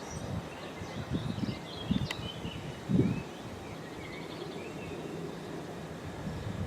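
Outdoor ambience: wind buffeting the microphone in gusts over the first three seconds, with a few faint bird chirps, then a steadier background hiss.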